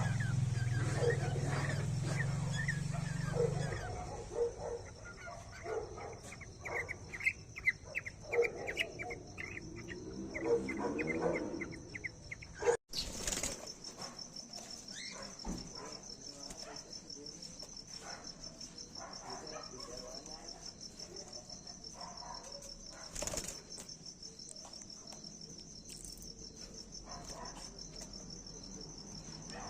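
Insects trilling in a steady, high, pulsing drone, with many short chirping calls in the first half. The sound drops out for an instant about 13 seconds in, then the trilling carries on.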